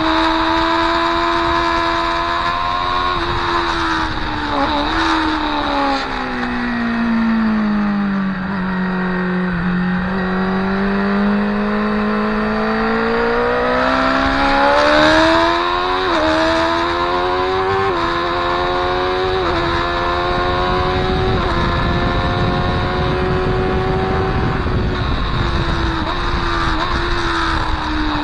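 Motorcycle engine at full track speed: the revs fall for several seconds as the bike slows, then climb hard through a run of quick upshifts, and fall away again near the end.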